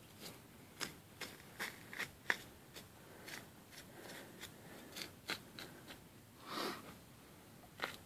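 Brent Harp custom hunting knife cutting through a deer carcass: faint, irregular small clicks and crunches, with a longer scrape about six and a half seconds in.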